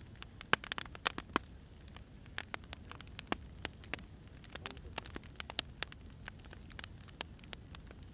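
Wood fire burning, with irregular sharp crackles and pops of firewood over a low steady rumble of the flames.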